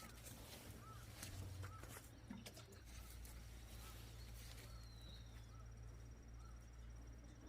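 Near silence: a steady low hum with a few faint clicks and soft chirps repeating about once a second.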